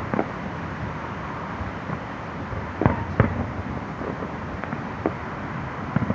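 Distant fireworks going off: a handful of sharp bangs, the two loudest close together about three seconds in, over steady city noise.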